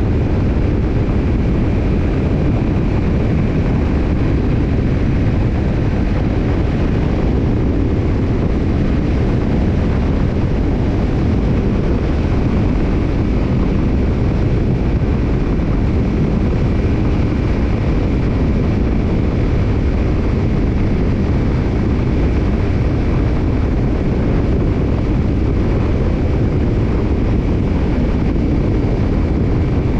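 Kawasaki Ninja 250's parallel-twin engine running through a BEET NASSERT Evolution Type II black titanium slip-on muffler, holding a steady, even exhaust note with no revving.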